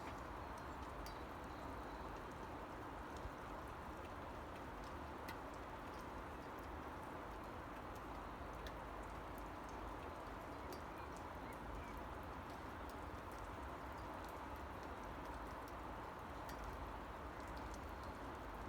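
Steady rain hiss with scattered faint ticks of individual drops.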